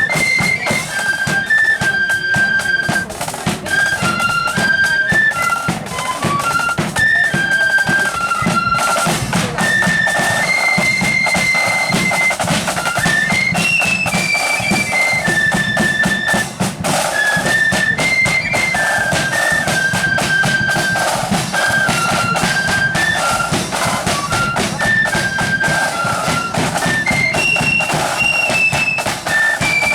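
Marching flute band playing: flutes carry a high melody over rapid snare drumming and a steady bass drum.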